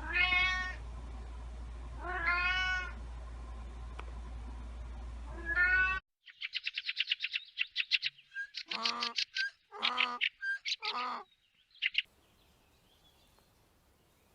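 A cat meowing three times over a steady low hum. After a sudden cut comes a run of rapid chirps, then three longer, wavering cries.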